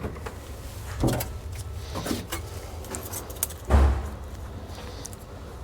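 Loose metal parts being handled: a few separate clanks, the loudest just before the end, with a brief light jingle of small metal pieces such as shims or bolts shortly before it.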